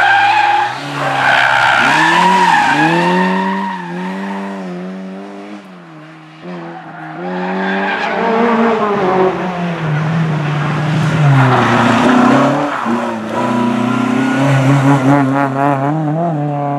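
Rally car engines revved hard on a special stage, the pitch climbing and falling with gear changes and lifts, along with tyre noise as the cars slide on the gravel or tarmac. The sound fades somewhat about six seconds in, then builds again with hard revving and a quick warbling pitch near the end.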